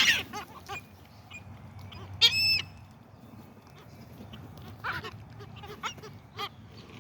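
Gulls calling: one loud, pitched call about two seconds in, and several short, softer calls scattered through.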